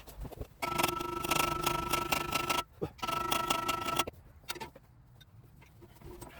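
A small motor-driven tool runs in two bursts, about two seconds and then about one second, with a steady whine and rapid clicking.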